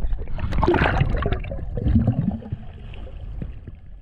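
Water gurgling and bubbling, uneven and low. It is loudest for the first two seconds, then fades.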